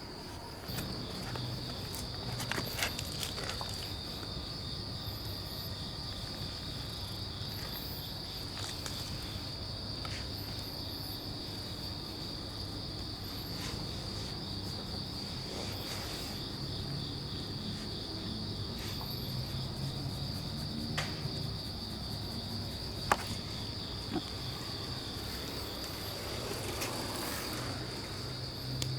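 Crickets chirring steadily in a continuous high trill, over a low steady rumble, with a few faint clicks.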